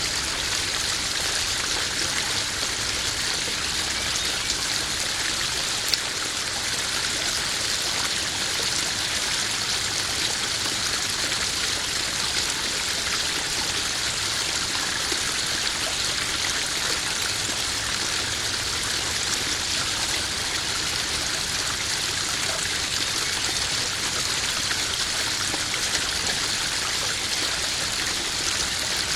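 Small koi-pond waterfall: water spilling and trickling steadily into the pond, a bright even splashing. A single sharp click about six seconds in.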